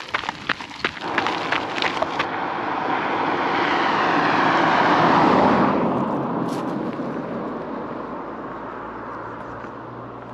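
Running footsteps, about three a second, stop about two seconds in. A car passes, growing louder to a peak about five seconds in and then fading away.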